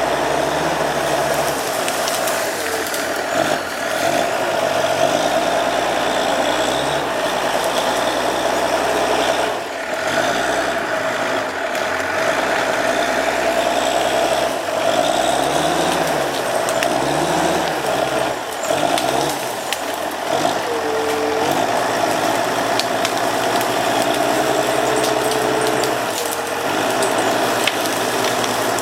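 A heavy diesel engine on a Timberjack skidder working hard, its pitch rising and falling again and again as it revs up and down under load. Scattered clicks and knocks run through it.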